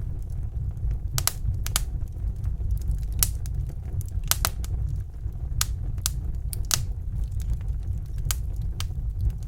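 Wood fire in a fireplace crackling: a dozen or so sharp, irregular pops over a steady low rumble.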